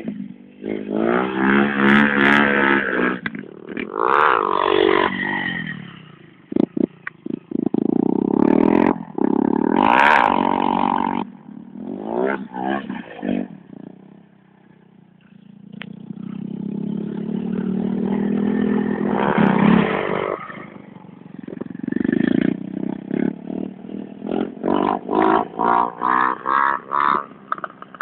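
Small engines of a quad bike and then a small motorcycle, revving up and falling back again and again as they ride by. Near the end the revs pulse up and down quickly, about twice a second.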